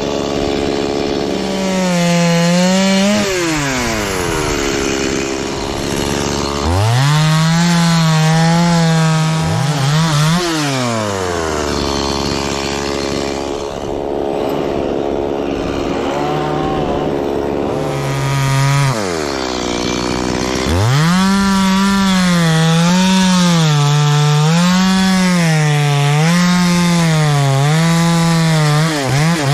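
Two-stroke chainsaw cutting through wood. Its engine pitch rises and dips again and again as the chain bites and frees in the cut, drops back to a lower run for a few seconds in the middle, then wavers up and down regularly through the last stretch.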